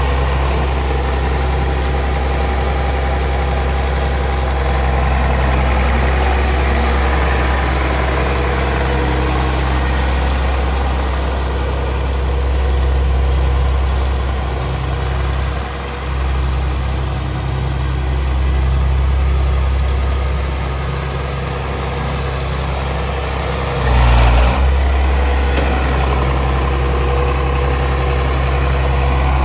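1959 Farmall 560 tractor's six-cylinder engine idling steadily, with one brief louder thump about three-quarters of the way through.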